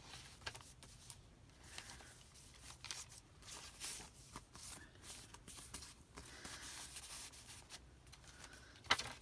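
Paper pages, tags and flip-outs of a handmade junk journal rustling and flapping as they are turned, with scattered soft taps and a sharper tap near the end.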